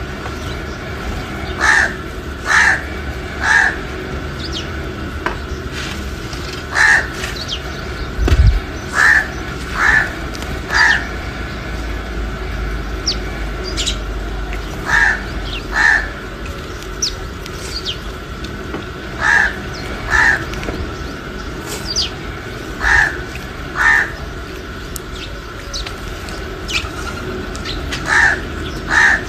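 A crow cawing in short runs of two or three calls about a second apart, with faint high chirps from other birds in between, over a steady faint hum.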